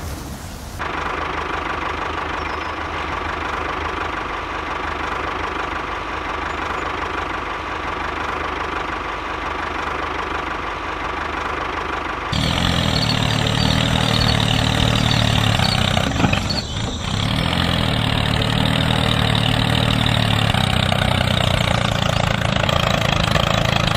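An engine running steadily at idle, in the manner of a tractor engine. About halfway through it abruptly becomes louder and lower.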